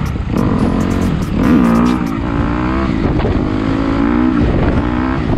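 Motorcycle engine revving while riding, its pitch climbing and dropping several times as it speeds up and shifts gears.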